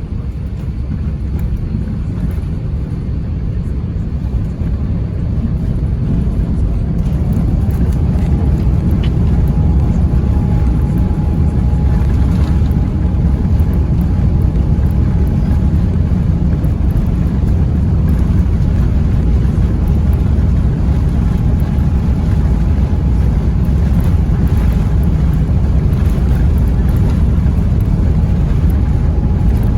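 Airbus A350-900 with Rolls-Royce Trent XWB engines: a steady low rumble of engines and airflow that grows louder over the first several seconds and then holds, with a faint steady whine joining about seven seconds in.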